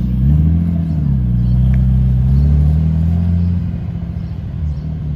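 Car engine running with a low, deep note, its pitch rising and easing off a couple of times as it is driven slowly; it gets quieter about three and a half seconds in.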